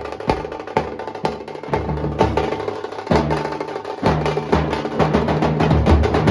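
Nasik dhol drums playing: sharp, spaced strokes at first, building into a dense, fast beat with heavy low booms from about four seconds in.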